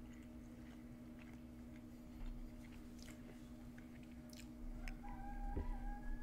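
Quiet close-up chewing of cooked chicken and rice with small mouth clicks, over a steady low hum. About five seconds in, a fork's edge presses through the chicken onto the ceramic plate, giving a brief squeak with a knock.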